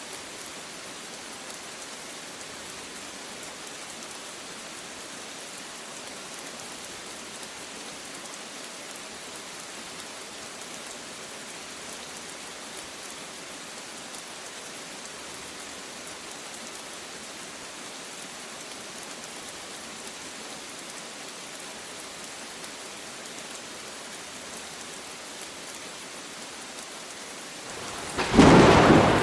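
Steady rain falling, an even hiss, until a sudden loud thunderclap crashes in about a second before the end.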